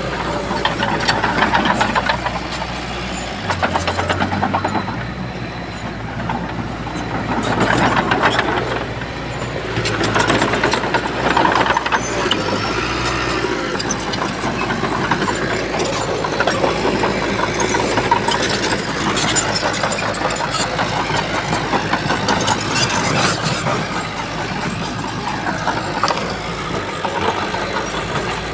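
Diesel engine of heavy earthmoving machinery running continuously, its level swelling and easing several times.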